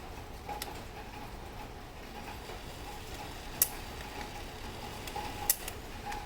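Three sharp, unevenly spaced clicks over a steady hum: a faint one just after the start, and louder ones about three and a half and five and a half seconds in.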